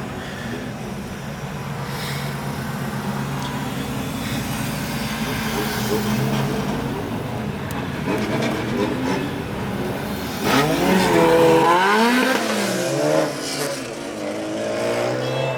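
Car engines running at a street race, getting louder over the first ten seconds, then an engine revved hard, its pitch swinging quickly up and down, about ten seconds in.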